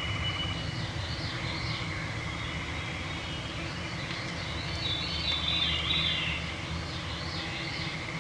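A veery singing its flutey, downward-spiralling song, three phrases in a row. Underneath runs a steady hum from swarming mosquitoes. A high, steady tone from another bird stops just before the first phrase.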